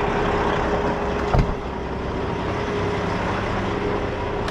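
Semi-truck diesel engine idling steadily, with a single short knock about a second and a half in.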